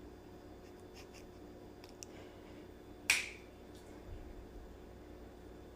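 A single sharp finger snap about three seconds in, preceded by a few faint ticks, made to call a dog over.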